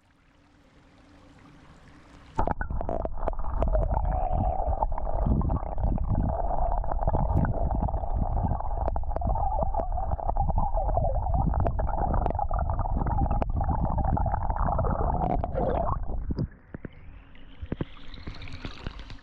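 Stream water gurgling and rushing right at the microphone, as if heard with the camera dipped into the creek. It comes in suddenly about two seconds in and cuts off near the end, giving way to a fainter rising hiss.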